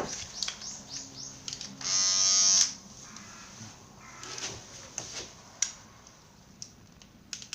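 Electric hair clippers buzzing loudly for under a second, about two seconds in, with a fainter motor hum and a few sharp clicks around it.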